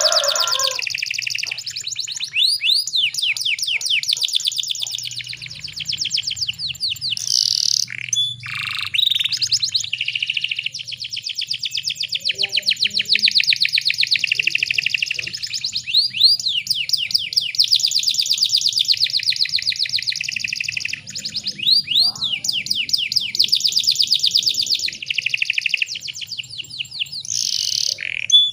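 Canary singing long, rapid trills, broken by short pauses and quick sweeping notes.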